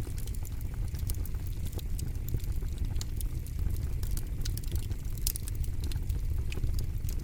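Campfire crackling: frequent irregular sharp pops and snaps of burning wood over a steady low rumble.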